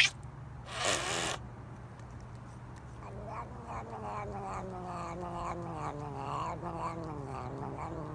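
Cat yowling: one long, wavering yowl that slowly falls in pitch, over a steady low hum. It follows a short burst of noise about a second in.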